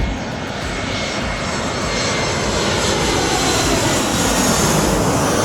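Airliner passing close by at low altitude, its engine noise swelling louder, with a whine that falls in pitch as it goes past.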